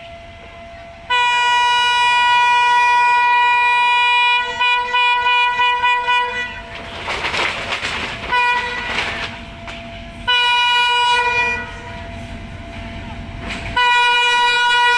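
Indian Railways diesel locomotive's air horn sounding repeatedly as the train approaches: one long blast of about five seconds, then a brief toot and two more blasts, with the rumble of the moving train in between.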